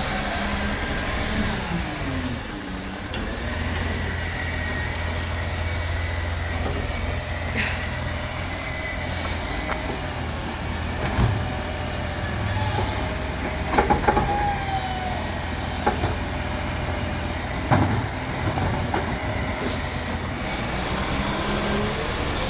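Side-loading rubbish truck's engine running steadily while its hydraulic lifting arm whines, rising and falling in pitch, with several sharp knocks around the middle as the arm and bin move.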